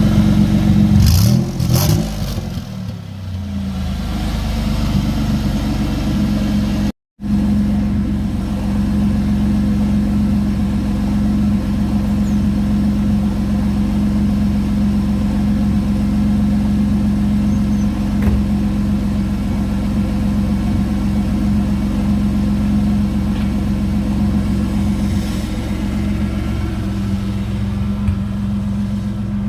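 Ford Mustang's twin-turbocharged V6 engine revved up and back down in the first couple of seconds, then idling steadily. The sound cuts out for an instant about seven seconds in.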